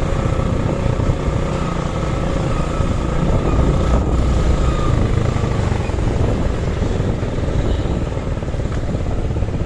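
Suzuki Gixer SF single-cylinder motorcycle engine running steadily under way, with road and wind rumble. The engine is hot, and the rider says it pops more the hotter it gets.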